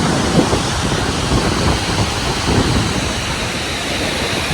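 Iguazu Falls roaring: a loud, steady rush of falling water.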